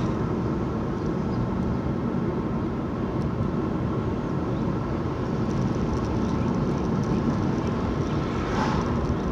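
Steady road and engine noise of a vehicle being driven along, even and unbroken throughout.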